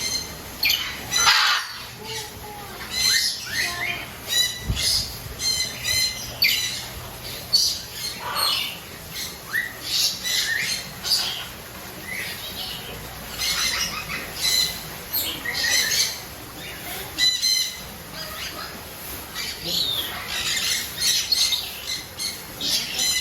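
Birds squawking over and over, harsh calls coming in quick clusters of several a second.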